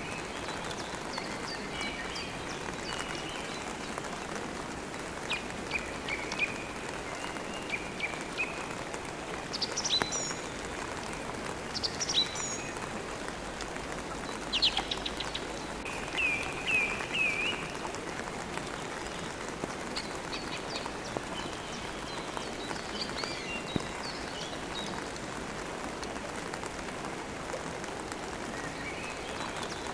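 Steady rain falling, with birds chirping and trilling over it now and then, most often in the middle of the stretch.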